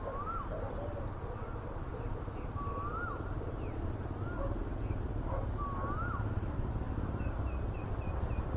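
Wild birds calling over a steady low rumble. A clear rising-and-falling whistle repeats about every three seconds, with a few short low coo-like notes between, and a quick run of short high chirps near the end.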